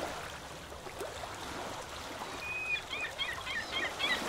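A bird calling in a quick series of short, high calls, starting about halfway through, over faint open-air background.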